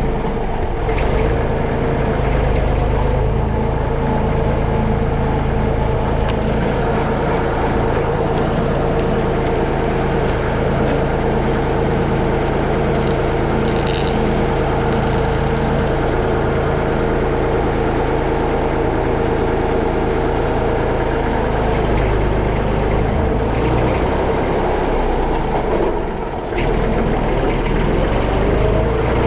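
Massey Ferguson 35X tractor's three-cylinder Perkins diesel engine running steadily, with a short drop in level near the end.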